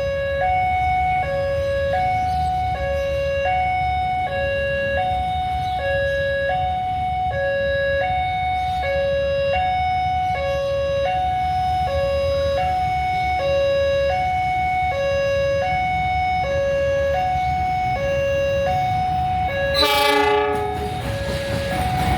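Railway level-crossing warning alarm sounding an alternating two-tone signal, high-low, about one switch every three-quarters of a second, over low rumbling. Near the end a short horn blast cuts in and broad rumbling noise rises, as a train approaches.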